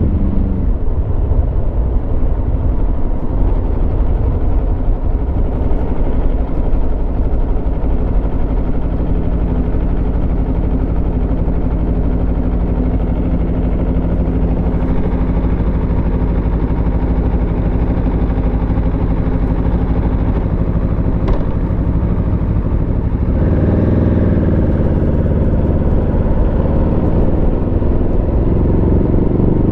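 Aprilia Tuono V4 motorcycle's V4 engine under way. Revs drop at the start, then hold a steady cruise. The note changes about two-thirds of the way through, and the revs climb near the end.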